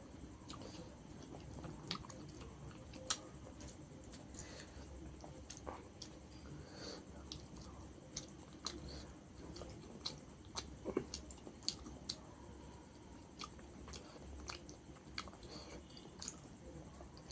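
A person chewing a mouthful of rice and tilapia curry, with irregular soft clicks and smacks of the mouth.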